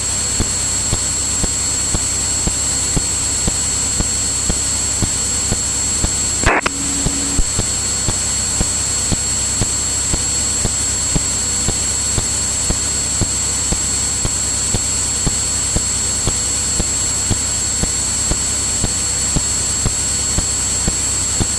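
Steady engine and propeller drone of a Cirrus single-engine piston airplane in cruise, heard through the cockpit intercom with a thin high whine and a faint regular ticking. A brief click and dropout about six and a half seconds in.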